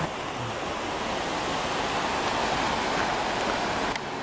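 Ocean surf breaking along a rocky shore, a steady even rushing.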